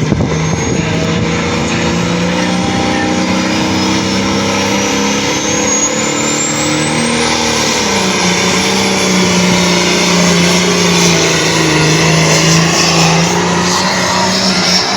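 A pulling vehicle's engine runs hard and loud under load. A thin high whistle climbs over the first seven seconds and then holds, and the engine note dips slightly about eight seconds in.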